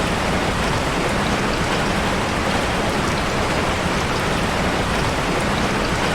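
Steady rain falling on a forest: an even, unbroken hiss of rain with faint scattered drop ticks.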